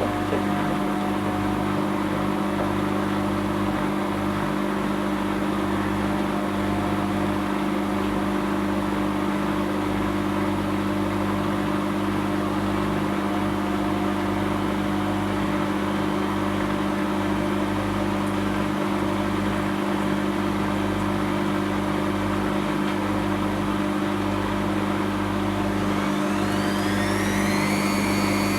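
Whirlpool Indiana 1400 washing machine with its drum spinning: a steady motor hum. About 26 seconds in, a whine rises and then levels off as the drum speeds up toward its 1400 rpm spin.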